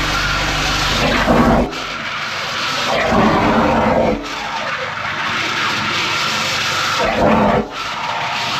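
High-pressure drain jetter blasting water through a silted culvert pipe, a loud steady rushing hiss whose tone shifts several times as the hose works along the pipe.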